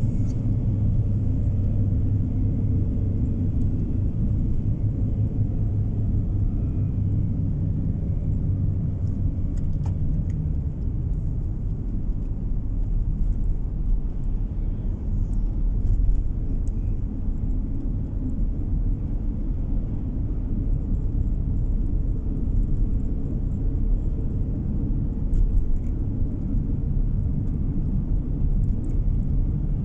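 Steady low rumble of a car driving along a road, tyre and engine noise heard from inside the cabin.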